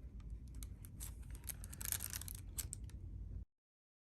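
Light clicks and rustles of objects being handled over a low steady hum, cutting off abruptly to dead silence about three and a half seconds in.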